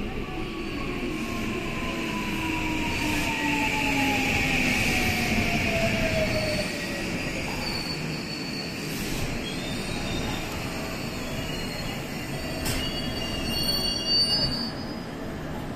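Electric commuter train braking into a station: its motor whine falls steadily in pitch as it slows, over rumbling wheel noise, and high brake and wheel squeals sound near the end as it comes to a stop.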